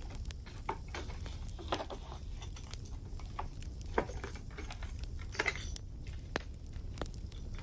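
Christmas baubles clinking and being handled, with several sharper ringing clinks about two, four and five and a half seconds in, over a steady crackling wood fire.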